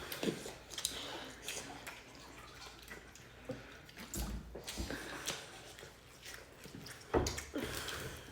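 People eating at a table: scattered small clicks, knocks and wet sounds of food and utensils, with two duller thumps about four and seven seconds in.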